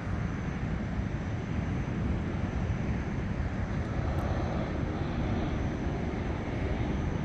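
Airplane engine noise: a steady low rumble with no clear pitch.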